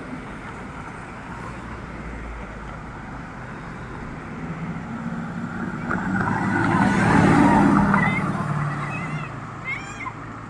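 A car passing by: its engine grows louder to a peak about seven seconds in, then fades away, over a steady background of street noise.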